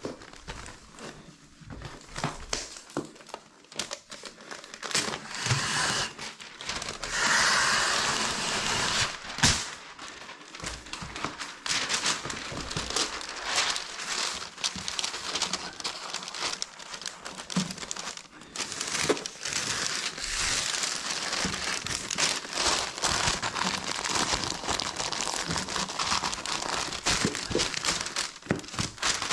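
Crinkly sheeting being handled and crumpled: continuous rustling and crackling with many small clicks, loudest from about seven to ten seconds in.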